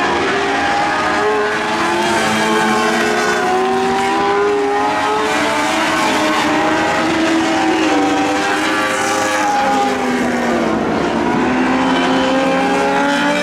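Several Lightning sprint cars' motorcycle engines racing together at high revs, each one's pitch rising and falling as they power through the turns and down the straights.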